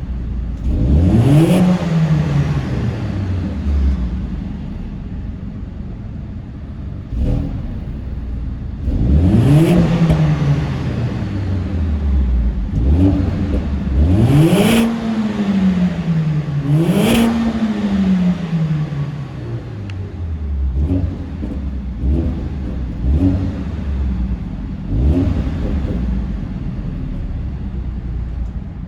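Mercedes-AMG A45 S's turbocharged four-cylinder engine revved repeatedly: four big revs, each climbing quickly and sinking slowly back to idle, and several shorter blips with sharp cracks from the exhaust.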